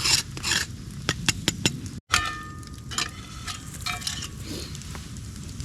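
A metal utensil knocking, scraping and clinking against a cast iron pan in a run of sharp clicks. About two seconds in there is a brief cut, and after it a few clinks ring with a short metallic tone.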